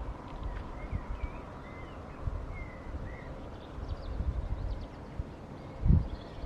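Outdoor evening ambience: small birds chirping with short high calls, over an uneven low rumble on the microphone, and a thump near the end.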